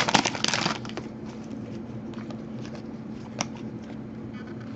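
Panini Prizm trading cards being handled: a brief louder rustle in the first second as the last pack is opened, then faint slides and taps of cards being flipped through, with one sharper tap about three and a half seconds in.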